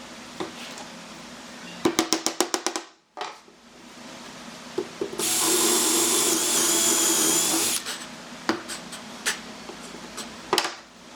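A power tool runs for about two and a half seconds in the middle, its pitch dipping briefly while it runs. Before it comes a quick run of about eight sharp clicks, and after it a few separate knocks.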